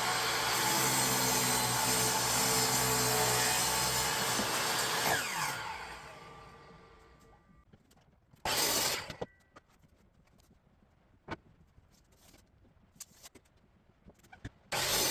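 Electric saw cutting through a maple board to rough length, its motor humming under the noise of the cut. About five seconds in it switches off and the blade winds down. Later come two brief loud bursts of the saw.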